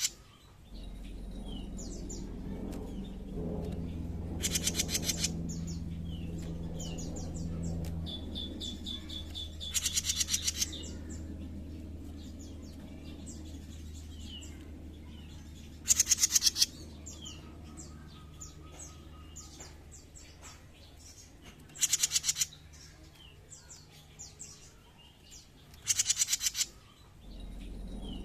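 Jenggot mini songbird singing: a loud, rapid trill about every six seconds, with short high chirps in between, over a steady low hum.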